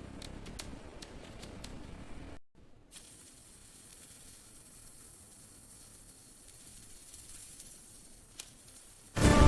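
Faint factory machine noise: a low rumble with light ticking that cuts off suddenly a little over two seconds in, followed by a faint steady hiss with a single click. Music starts right at the end.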